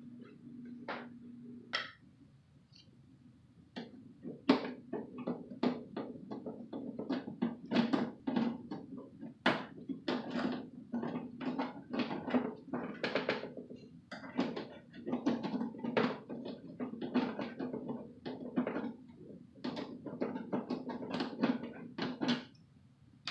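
Rapid, irregular clicks, knocks and clatter of parts being handled and worked on, over a steady low hum. The clatter starts about four seconds in after a few isolated clicks and stops shortly before the end.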